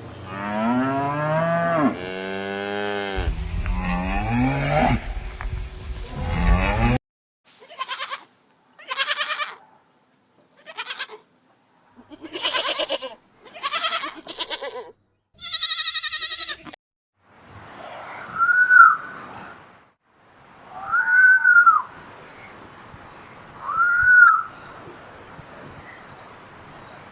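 A run of edited-together farm animal calls. First a long, low lowing call of about seven seconds, then about six separate bleats, then one high call, then three short high calls a couple of seconds apart, each rising and falling.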